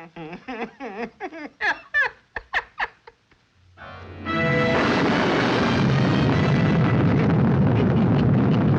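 Cartoon score of short sliding, rising notes that stops. About four seconds in, a sudden heavy rainstorm sound effect sets in: a loud, steady downpour with thunder rumble, under music.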